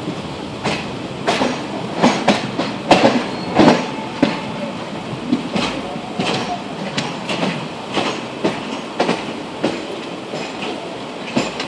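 Train running slowly over the rails, heard from aboard: a steady rumble with irregular clattering knocks from the wheels over rail joints and points, heaviest in a cluster about two to four seconds in.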